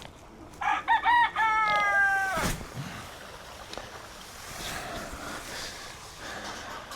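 A chicken crowing once, about two seconds long: a few short notes, then a long held note that drops away at the end.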